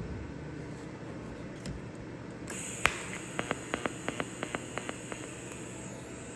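TIG welding arc from a Hitbox welder striking for tack welds. After a steady hiss, about two and a half seconds in, a thin high whine starts with one sharp crack. Irregular ticks and crackles follow while the arc burns.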